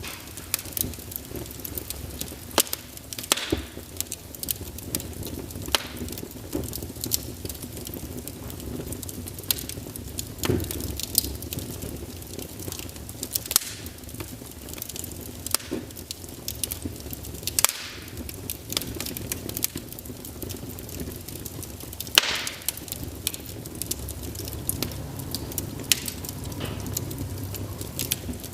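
Logs burning in a fireplace: irregular crackles and sharp pops over a steady low rumble of flame.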